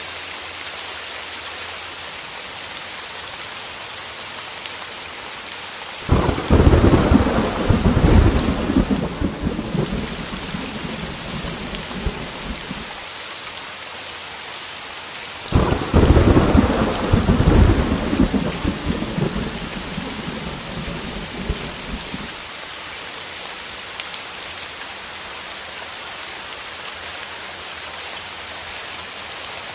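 Heavy rain pattering steadily on a window, with two rolls of thunder. Each roll starts suddenly and rumbles off over several seconds: one about six seconds in, the other about halfway through.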